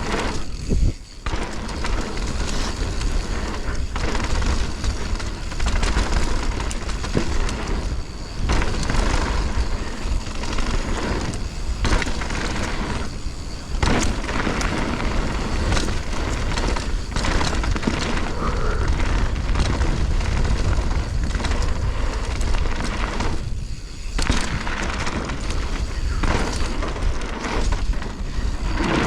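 Wind buffeting on a helmet- or bike-mounted camera's microphone as a mountain bike rides downhill on a dirt trail, with tyre noise and rattling and knocking from the bike over rough ground. It is briefly quieter a few times.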